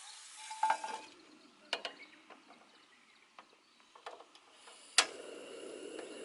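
Cookware handled after frying: metal clinks and light taps against a pan, one ringing briefly, while the frying sizzle dies away about a second in. A sharp click near the end is followed by a steady low hiss.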